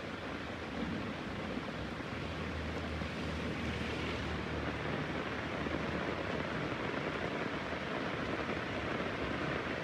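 Heavy rain falling in a steady hiss. A low rumble of thunder runs underneath and dies away about seven seconds in.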